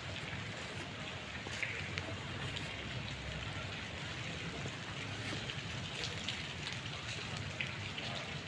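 Steady light rain falling, an even hiss with a few single louder drops ticking now and then.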